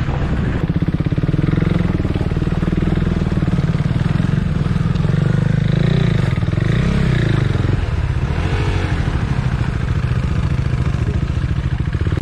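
KTM Duke 390's single-cylinder engine running at low speed close to the microphone, with a quick, even beat and revs rising and falling a little as the bike rides on.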